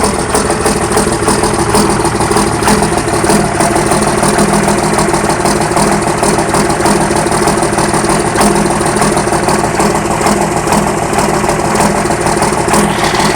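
1999 Dodge Ram's 5.9 L 24-valve Cummins inline-six turbo-diesel idling steadily with a fast, even clatter, still cold shortly after a start at 27°F.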